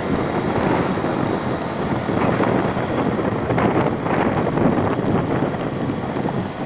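Wind buffeting the microphone during a ride, over the steady rumble of the vehicle.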